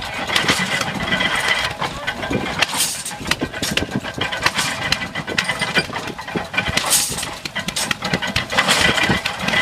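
Old stationary hay baler running, belt-driven by an old hit-or-miss engine: steady mechanical clatter and knocking, with a louder swell about every two seconds.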